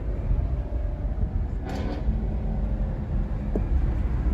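Low, steady rumble of car engines idling, with a brief faint higher sound a little under two seconds in.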